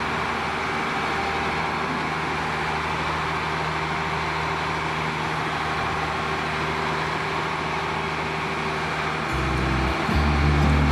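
Steady engine hum and road noise of a vehicle driving along. About nine seconds in, music with a deep bass line comes in.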